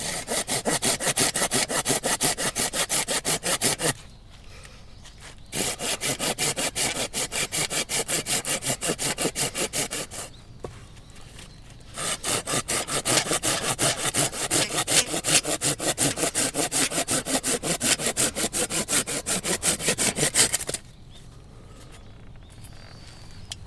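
Hand saw cutting through a firewood log with quick back-and-forth strokes, in three bouts with short pauses between them, stopping a few seconds before the end.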